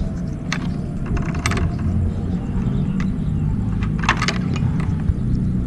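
Small clicks and taps of parts and tools handled while wiring a water heater's thermostat, about five sharp ones with a cluster about four seconds in, over a steady low rumble.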